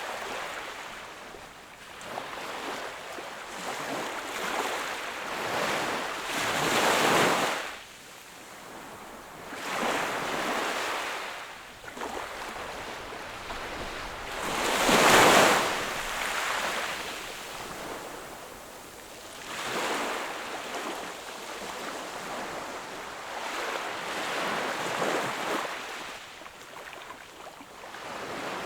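Small sea waves washing onto a shore, each swelling and fading back every few seconds, with the loudest breaks about seven seconds and fifteen seconds in.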